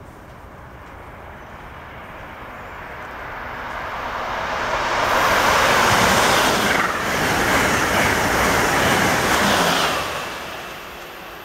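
Amtrak Acela Express high-speed trainset passing through a station at speed without stopping. A rush of wheels and air builds as it approaches, turns to a loud hiss for about five seconds as it goes by, and fades near the end.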